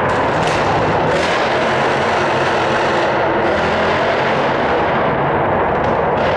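Loud, steady exhaust noise from a tuned performance car running hard, with a couple of brief sharper flares in the first second or so.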